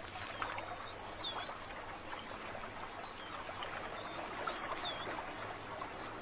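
River ambience of water splashing and trickling, with a bird giving a short whistled call twice, about a second in and again past the middle, and a run of quick high ticks near the end.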